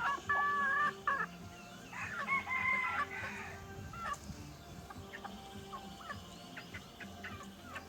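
Rooster crowing, two long calls in the first three seconds, then short scattered clucks from chickens.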